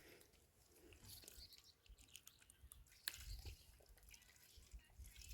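Faint, scattered small clicks and crunching close to the microphone, with one sharper click about three seconds in; otherwise near silence.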